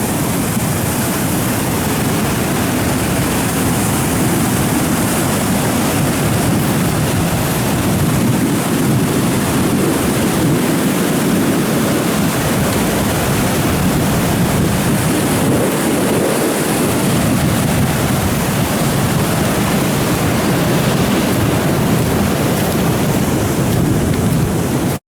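Storm runoff water rushing steadily in a flash flood, cutting off abruptly near the end.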